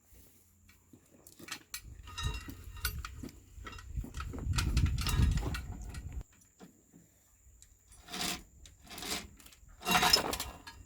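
Metal parts and tools clinking and clanking during work on an excavator's oil seal, with a low rumble in the first half and three louder metallic knocks about a second apart near the end.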